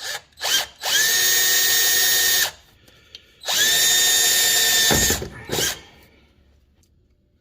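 Power drill driving screws: a few quick squeezes of the trigger, then two steady runs of about a second and a half each, spinning up and winding down.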